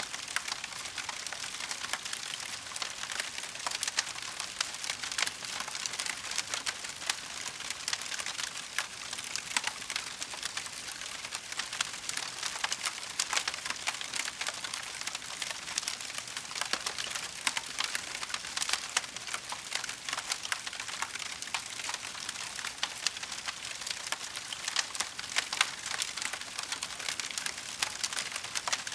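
Burning wood crackling in a fireplace: a steady patter of dense small pops and snaps, with sharper cracks here and there.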